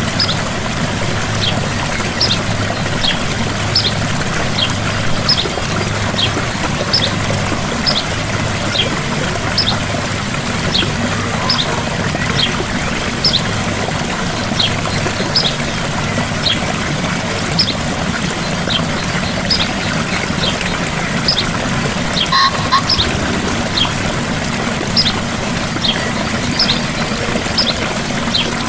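Gentle waterfall splashing steadily, with a short high call repeating about once a second over it.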